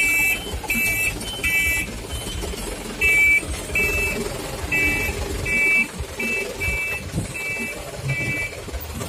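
A truck's electronic beeper sounding about a dozen short, high two-tone beeps in an uneven rhythm, over the low rumble of the truck's engine running.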